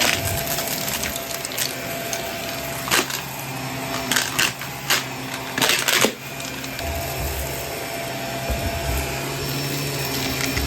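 Vacuum cleaner running steadily on carpet, with a cluster of sharp crackles and clicks near the middle.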